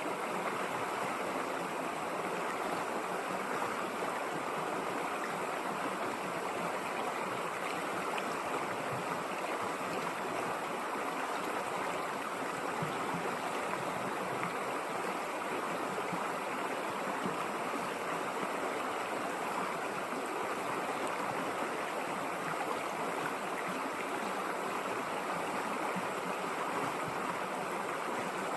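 River water flowing steadily, an even rushing with no breaks or distinct splashes.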